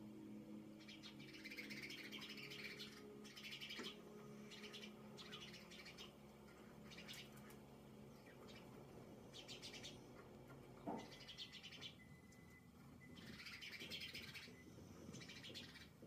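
Faint small-bird chirping, heard through a window, coming in short clusters of quick high notes every second or two. A low steady hum sits under the first half.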